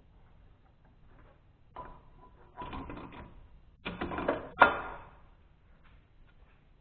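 Metal engine parts being handled and set down during head gasket reassembly on a Kohler K241 engine: a run of clinks and clattering knocks over a few seconds, with one sharp knock, the loudest, about two thirds of the way in.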